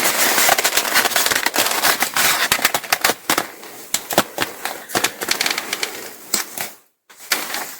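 Backing paper being peeled off a self-adhesive ripstop nylon repair patch, making dense crackling that thins to scattered crackles after about three seconds.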